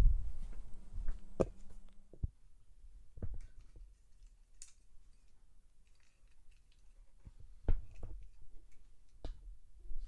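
Scattered light clicks and knocks, with a low thump at the start and a quiet stretch in the middle, from small die-cast toy cars being handled and set on a toy race track.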